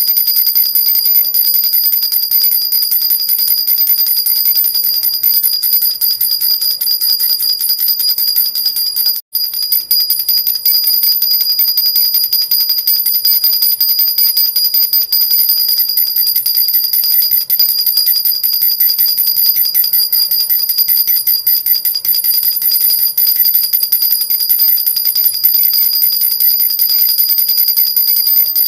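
Metal baby rattle (jhunjhuna) shaken without pause: a fast, steady jingling with a high metallic ring. It breaks off for an instant about nine seconds in.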